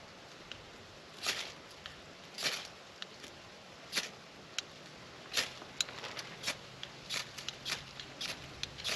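Ferro rod struck with a knife to throw sparks onto fatwood tinder: short scraping strokes about a second apart, then quicker, sharper scrapes and clicks from about five seconds in.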